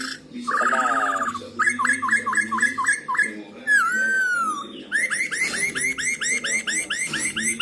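Black-throated laughingthrush (Poksay Hongkong) singing loud, clear whistled phrases. It opens with a quick trill, then a string of repeated notes, then one long falling whistle, then a fast run of upswept notes at about four a second.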